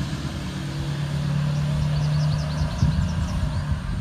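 A motor vehicle's engine running steadily with a low hum, with faint high chirps through the middle.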